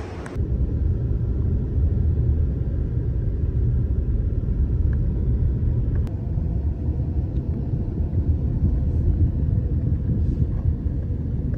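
Steady low rumble of a vehicle heard from inside while travelling, with no speech over it.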